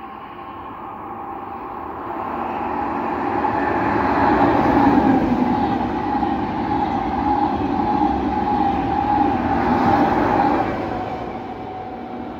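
Renfe AVE high-speed train passing at speed: the rush of wheels and air builds over the first few seconds, holds loud for about six seconds as the set goes by, then fades, with a steady whine running through it.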